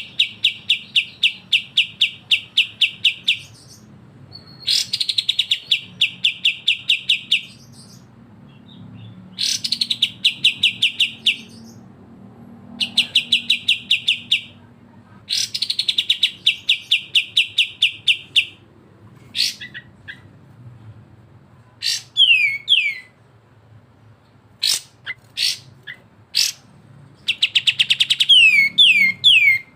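Kapas tembak and cucak jenggot songbirds (bulbuls) calling in their rapid, harsh 'besetan' style. Bouts of fast, evenly repeated notes, roughly eight a second and each lasting two to four seconds, are broken by short pauses. Toward the end come several quick downward-sliding whistles.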